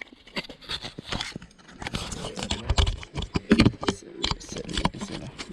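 Handling noise on a GoPro and its plastic case: an irregular run of clicks, knocks and scrapes as the camera and case are fumbled with.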